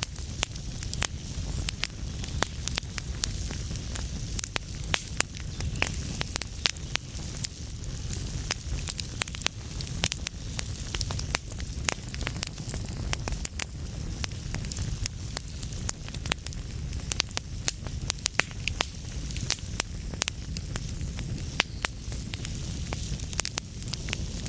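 Fireplace fire burning: dense, irregular crackles and sharp pops over a low, steady rumble of the flames.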